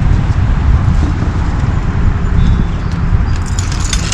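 2014 Chrysler Town & Country minivan on the move: steady road and tyre rumble with no wheel-bearing hum, the bad front wheel bearing having been replaced.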